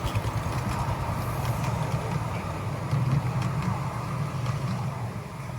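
Miniature railway locomotive running: a steady low rumble with faint clicks over it.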